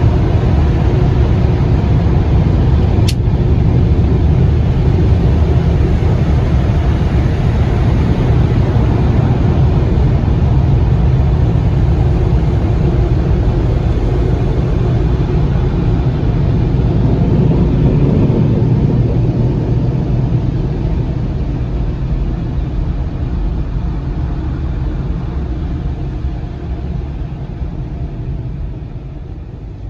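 Steady loud rumbling noise of automatic car wash machinery, with a single sharp click about three seconds in; the noise fades away over the last few seconds.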